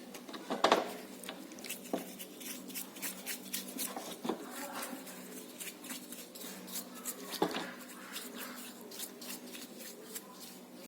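Small metal parts being handled and worked by hand: many light clicks and taps, with a few louder knocks, over a steady low hum.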